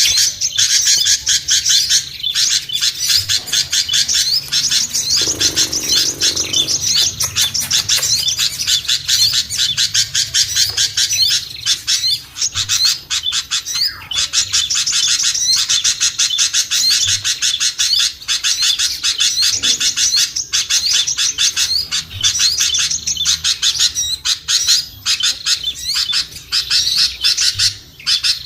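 Dense, continuous chorus of rapid, high-pitched small-bird chirps and twitters. This is a lure call for small songbirds, played to draw them down.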